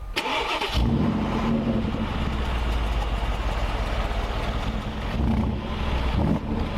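Mercedes-AMG G63's 5.5-litre biturbo V8 starting: a brief crank, then it catches about a second in and settles into a steady idle.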